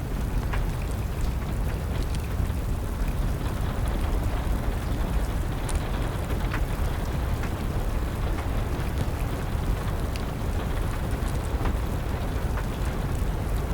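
Wood fire crackling, with scattered sharp pops at irregular intervals over a steady low rumble and the hiss of rain.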